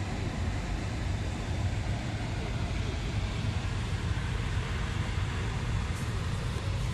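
Steady low rumble with a light hiss over it, the background noise of an outdoor vehicle recording; no speech.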